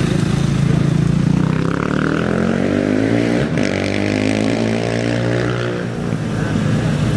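An off-road race engine revving up and passing by, its pitch rising and then dropping away after about three and a half seconds.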